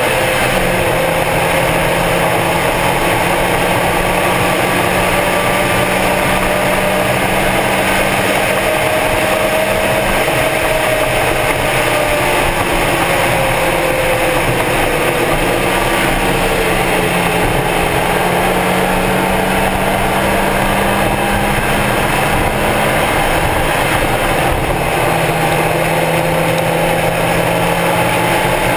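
Stock Mazda Miata's four-cylinder engine running hard at speed, over a steady rush of wind and road noise. The engine note slowly rises and falls, with a few sudden steps in pitch.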